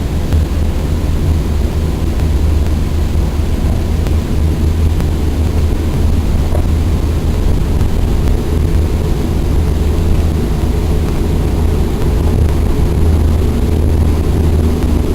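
Steady low rumble of a Port Liner rubber-tyred automated transit train running, heard from inside the car.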